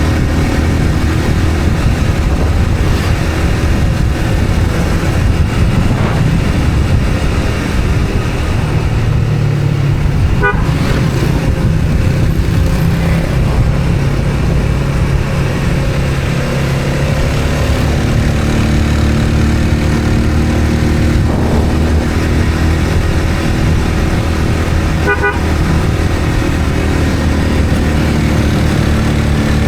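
Motor vehicle on the road: a steady engine hum and road noise, with two short horn toots, about ten seconds in and again near twenty-five seconds.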